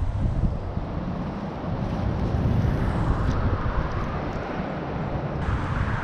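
Steady rumble of traffic from a nearby major highway, mixed with wind buffeting the microphone.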